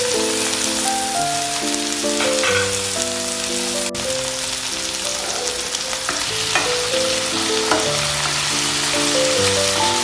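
Food sizzling in a hot pan, a steady hiss with a few light knocks, over soft background music of held, changing notes.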